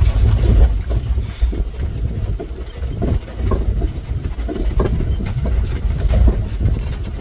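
Horse-drawn covered wagon rolling: a steady low rumble with irregular knocks and rattles, and hoof clops mixed in.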